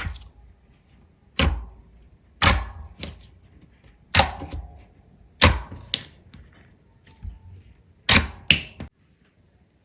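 Slime being pressed and poked, giving about nine sharp, irregular pops and clicks, each with a short tail. They stop about a second before the end.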